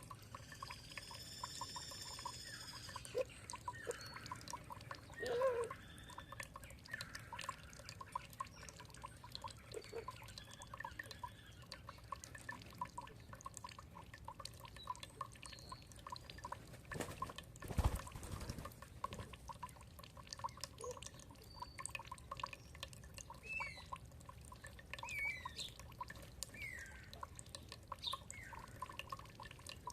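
Water dripping and trickling steadily in quick small drops, with birds calling over it: one long arched call at the start and short chirps scattered through the second half. A single low thump about two thirds of the way through.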